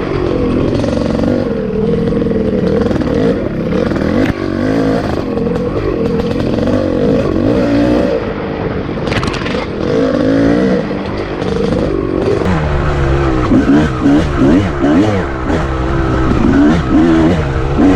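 Two-stroke dirt bike engine under way, its pitch rising and falling as the throttle is worked on and off, with quicker revving from about two-thirds of the way through.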